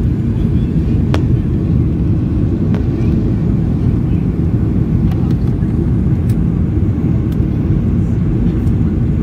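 Steady low rumble inside the cabin of a Boeing 737-800 climbing after takeoff, from its CFM56-7B engines and the airflow past the fuselage, with a few faint clicks.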